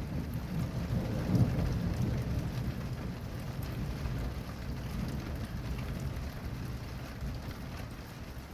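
Thunder rolling low and slowly dying away over steady rain; the rumble swells about a second in.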